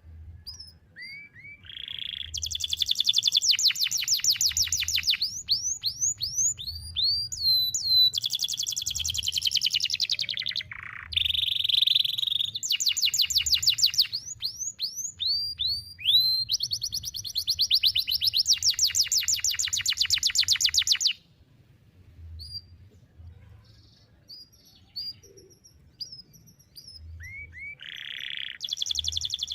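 Domestic canary singing a long unbroken song of fast rolling trills and sharp downward-sweeping notes. It breaks off about two-thirds of the way through, with only faint chirps, and starts up again near the end.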